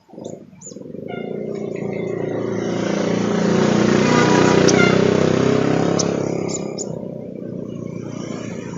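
A motor vehicle passing by: a broad rumbling noise that swells for about three seconds and then fades. A few short, high sunbird chirps come near the start and again near the end.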